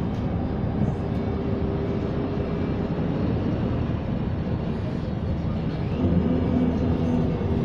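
Wright StreetLite single-deck bus running, heard from inside the cabin: a steady low rumble with a hum that shifts pitch. A louder, lower hum comes in about six seconds in. The owner finds this noise weird and hears it as the bus slows at points.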